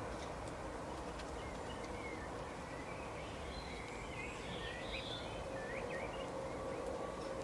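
Small birds chirping in short, scattered calls over a steady outdoor background hiss with a faint, even hum.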